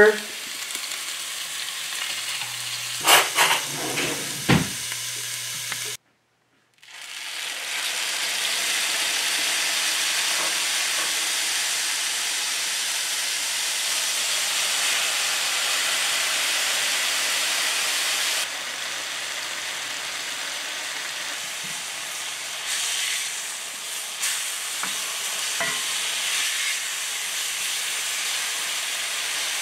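Morels frying in hot coconut oil in a sauté pan, with a few sharp knocks; after a short break, elk steaks sizzling steadily in a hot cast iron skillet.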